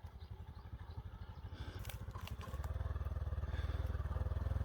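Motorbike engine running at low revs as it comes down a steep, dusty track, getting closer and louder, with a step up in loudness about two and a half seconds in. A few sharp clicks around two seconds in.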